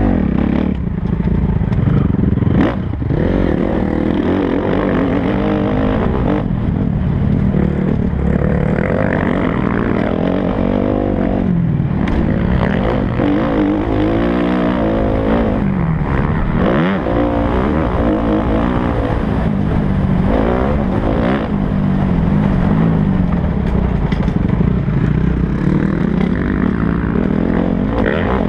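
Kawasaki KX250F motocross bike's 250cc four-stroke single-cylinder engine revving up and down repeatedly as it is ridden, the pitch climbing and dropping every second or two with the throttle and gear changes.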